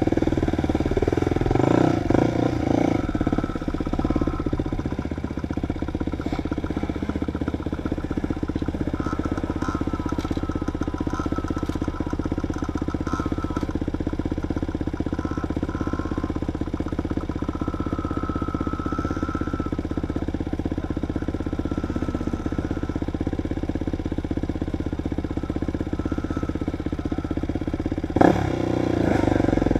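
Dirt bike engine running at a fairly steady pace, with a few knocks and rattles in the first seconds and again about two seconds before the end.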